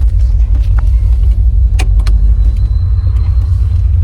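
Vehicle engine running through a newly fitted exhaust with a turn-down tip, giving a steady deep rumble. A couple of short clicks come about two seconds in.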